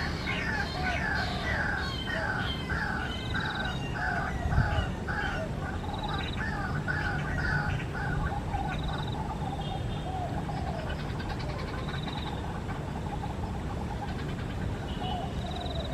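White-breasted waterhen calling: a repeated series of call notes, about two a second, thinning out after about eight seconds. A steady low rumble runs underneath, and there is a single thump about four and a half seconds in.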